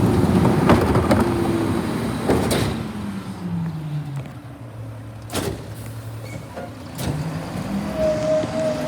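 Garbage truck engine slowing down to a steady low idle, then picking up again, with several sharp knocks along the way and a steady whine near the end.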